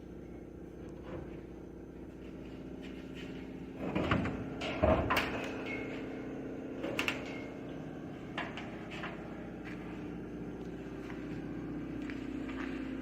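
Metal clunks and rattles as an engine hangs on a hoist and is worked out of the engine bay, over a steady low hum. The loudest knocks come in a cluster about four to five seconds in, with a few lighter ones later.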